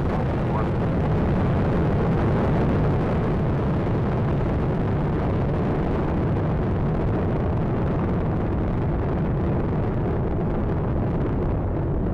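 Space Shuttle Atlantis's solid rocket boosters and main engines during ascent: a steady, dense, deep rumble whose upper part fades over the last few seconds.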